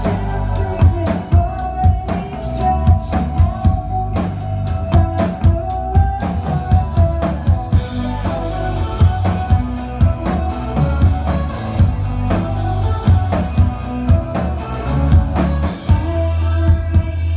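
Live indie rock band playing a song: a drum kit keeps a steady beat under electric guitar and bass.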